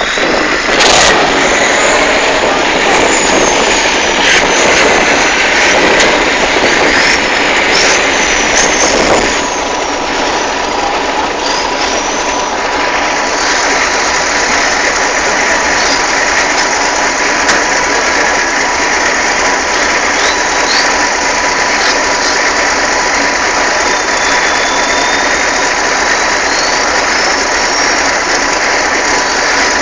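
Competition truck's engine running loudly and continuously, a little louder in the first ten seconds, with thin high squeaks over it.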